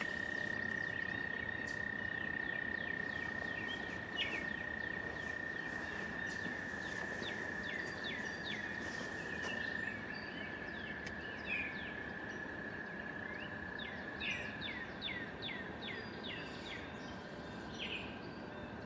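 American toad giving its long, steady musical trill, which fades out near the end, with many short high chirps over it throughout.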